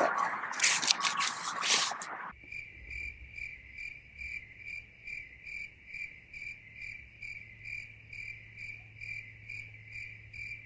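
Nylon bag fabric crinkling and rustling as a knotted drawstring is worked loose. About two seconds in it cuts suddenly to steady cricket chirping, about three even chirps a second, over a low steady hum.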